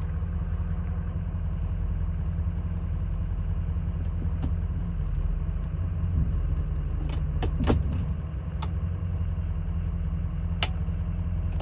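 Ford 6.0 Powerstroke V8 turbo-diesel idling steadily while still cold, a low drone, with about half a dozen short sharp clicks from about four seconds in.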